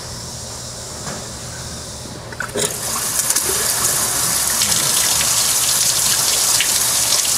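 Water gushing and splashing from a heater-core line during a coolant flush. It starts suddenly about two and a half seconds in, louder than the softer hiss before it, and keeps running steadily.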